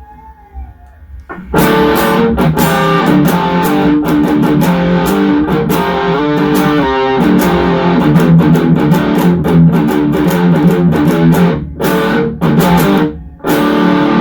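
Electric guitar played through an MXR Super Badass Distortion pedal: a loud distorted riff that starts about a second and a half in, with a couple of short breaks near the end. Before it starts, only a faint amp hum.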